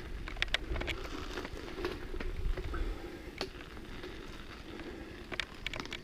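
Mountain bike moving over a dirt and rock trail: a low rumble with scattered sharp clicks and rattles from tyres on stones and the bike.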